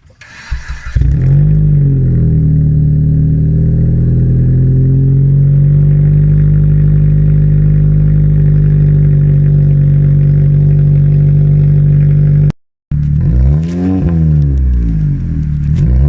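2007 Dodge Caliber's four-cylinder engine, muffler removed, starting about a second in and then idling loud and steady through the open exhaust. After a short break near the end it is revved twice, the pitch rising and falling each time.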